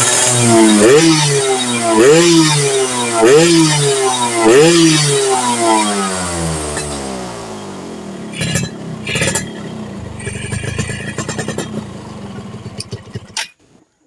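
Yamaha F1ZR single-cylinder two-stroke engine revved in four quick throttle blips, then dropping back and running roughly with scattered pops before the sound cuts off near the end. It is a test run after a carburettor jet change, on a bike that bogs and backfires.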